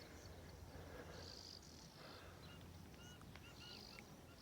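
Near silence: faint insects buzzing in short repeated bursts, with a few faint, short high chirps about three seconds in.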